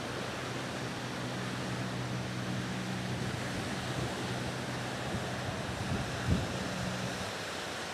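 Steady wind and surf noise on the shore, with a low steady hum that fades in and out and one brief low thump about six seconds in.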